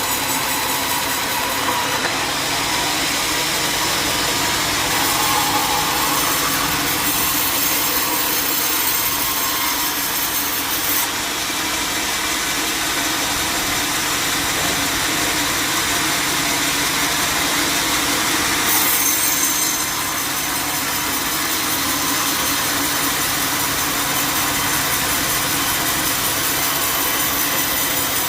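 A sawmill running, its blade cutting steadily through wood over the steady drone of its engine. The hiss of the cut shifts slightly about eleven seconds in and again near twenty seconds.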